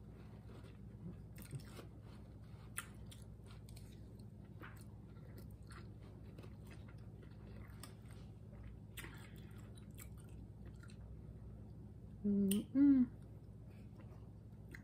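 Quiet close-miked chewing of fried noodles and duck, with faint mouth clicks and ticks. Near the end there is a short two-part hummed "mm-hm".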